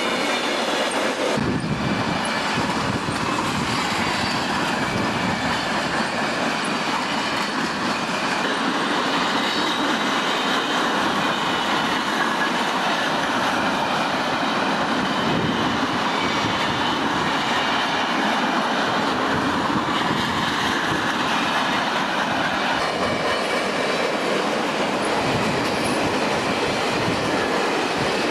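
Conrail freight train rolling past, the wheels of its cars clattering steadily over the rail joints, with faint wheel squeal.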